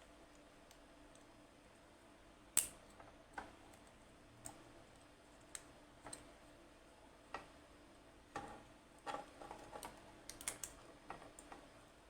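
Scattered light clicks and taps, a dozen or so at uneven intervals: the loudest comes about two and a half seconds in, and a quick cluster follows near the end. A faint steady hum sits underneath.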